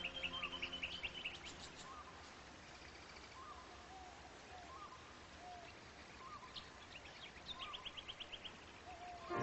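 Birdsong: a short call repeated about once a second, with quick trilled runs of high notes near the start and again near the end.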